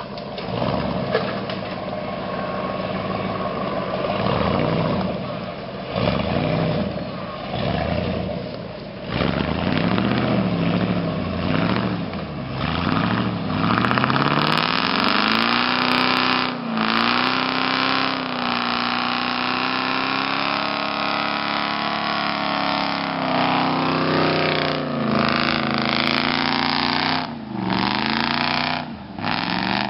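1988 Ford F-150's 302 (5.0 L) V8 revving hard under load as the truck drives through mud. The revs rise and fall, climb about halfway through and are held high, then drop sharply a few times.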